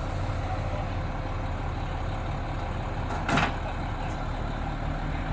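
Heavy vehicle engine running steadily, with one brief hiss about three seconds in.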